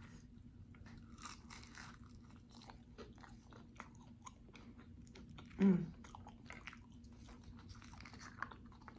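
Close-up chewing and crunching of a fried samosa pastry, a steady run of small wet crackles. There is a short, louder hum about halfway through.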